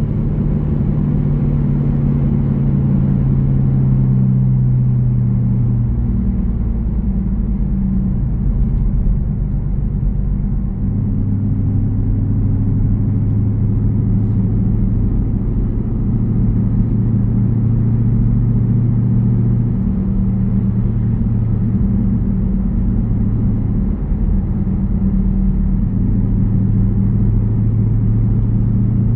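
Jeep Grand Cherokee's 5.7-litre Hemi V8 exhaust rumbling while driving. The engine note drops in steps a few times, then holds mostly steady.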